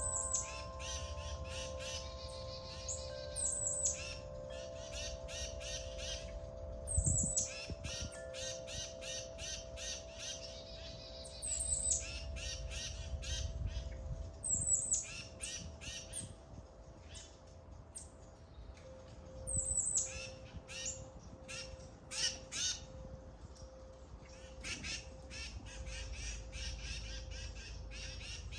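Small birds chirping and chattering in quick, dense runs, with sharp high calls that drop in pitch, over the steady lingering ring of wind chimes.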